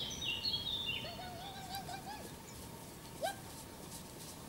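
Wild birds singing: a quick run of high chirping notes stepping down in pitch, then a lower wavering note, and a short call a little past the middle.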